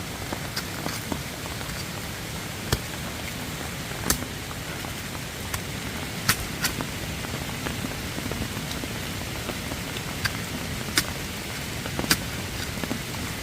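Steady rain falling, with sharp ticks of single drops striking close by at irregular moments.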